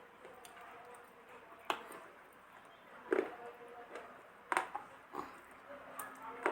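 Dry multani mitti (fuller's earth clay) being bitten and crunched in the mouth: about half a dozen sharp, separate crunches at irregular intervals, the loudest about three seconds in.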